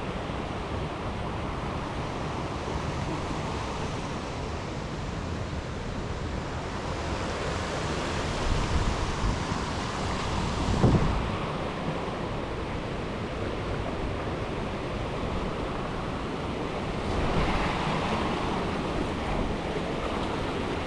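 Steady rush of river water running over rapids and falls, with wind buffeting the microphone. A brief thump comes about halfway through.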